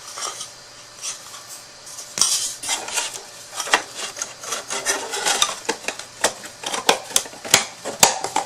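Irregular clicking, tapping and rubbing of small hard objects being handled, starting about two seconds in after a quiet start.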